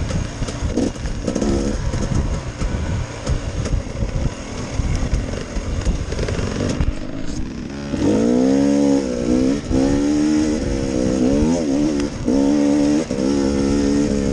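Dirt bike engine running on a rough trail, with rattling and knocks from the bumps; from about eight seconds in its pitch rises and falls repeatedly as the throttle is blipped and released.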